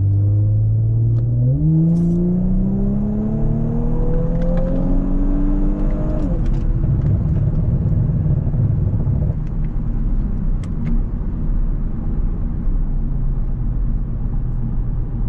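Audi S5 engine heard from inside the cabin, revs climbing steadily under acceleration for several seconds, then dropping sharply at an upshift about six seconds in. It then settles into a steady cruise over road rumble.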